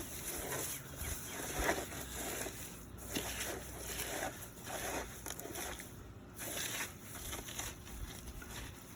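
Hands squeezing and working a very wet mix of mud and grass, giving a run of irregular wet squishes.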